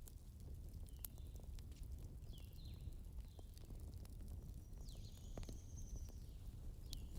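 Campfire crackling: sparse sharp pops and snaps over a low rumble of burning. A few short high chirps sound several times, with one longer high whistle about five seconds in.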